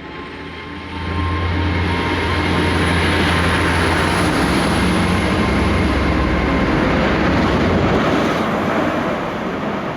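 A train running close by: a loud rush of wheel and engine noise over a low drone, building sharply about a second in and easing off near the end.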